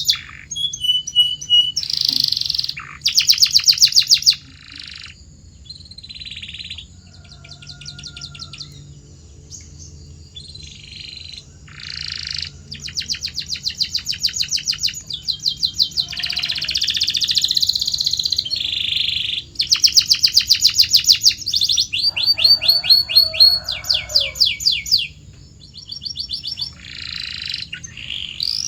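Domestic canary singing: a string of high-pitched song phrases, each a fast trill of repeated notes that changes pace and pitch from phrase to phrase, with short pauses in between.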